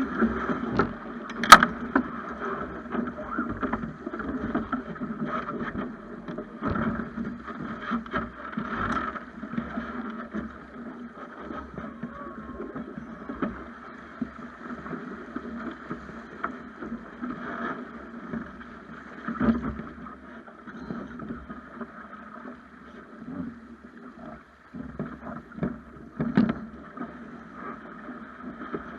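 Water rushing and slapping against the hull of a Snipe sailing dinghy under way, with wind, heard through an action camera. Occasional sharp knocks on the boat; the loudest comes about a second and a half in.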